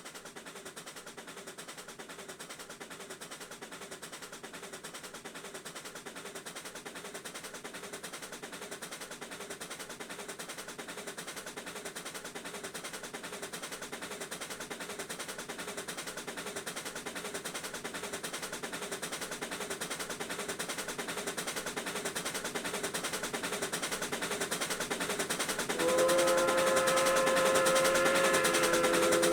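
Two steam locomotives working a train together, their exhaust chuffing in a rapid, even beat that grows slowly louder as they approach. Near the end a steam whistle blows loudly and is held.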